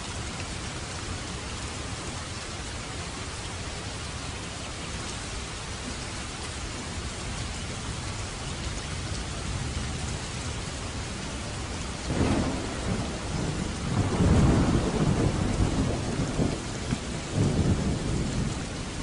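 Steady heavy rain, with a roll of thunder breaking in about two-thirds of the way through and rumbling on in swells to the end.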